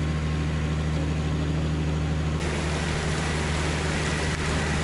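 Steady low engine hum under a wash of noise. The hiss suddenly gets brighter about two and a half seconds in.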